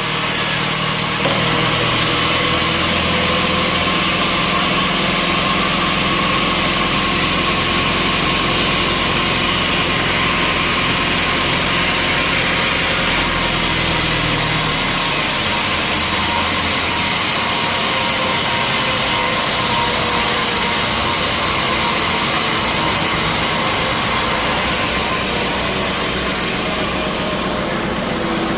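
Engine-driven sawmill machinery running steadily, its engine note shifting about halfway through.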